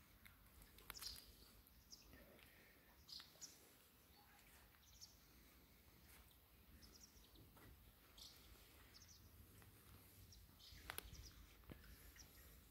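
Near silence: faint outdoor ambience with scattered, faint short bird chirps and a few soft clicks.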